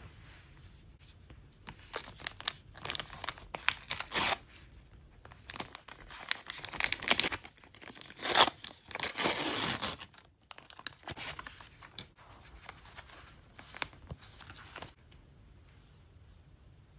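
Paper packaging on a product box being torn and handled: a few short rips, a sharp snap, then one longer tear about halfway through, followed by lighter crinkling and scraping that stops about two seconds before the end.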